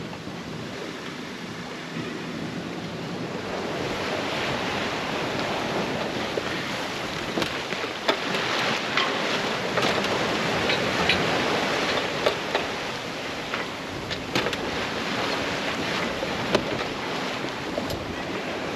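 Sea water rushing and splashing along a sailboat's hull under way, with wind on the microphone. The water noise swells a couple of seconds in, and a few light knocks sound here and there.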